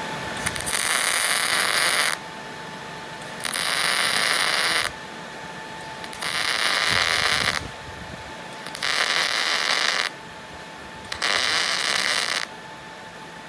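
Welding arc crackling in five short runs of about a second and a half each, with pauses between, as the base plate of a steel flag pole is welded shut where a seep hole might have been left.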